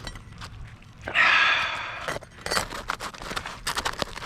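Hand-tool work on asphalt shingles: a short, loud rushing noise about a second in, then a quick run of light clicks and scrapes.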